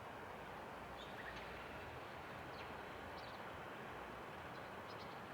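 Several short, thin, high bird calls scattered over a steady rushing background noise.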